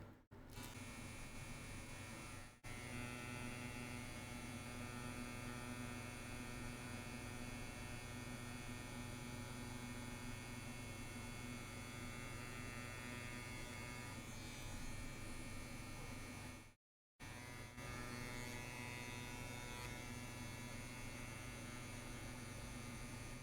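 CNC WE tattoo machine running with a steady buzz as its needle draws lines into practice skin. It stops once, briefly, about two-thirds of the way through.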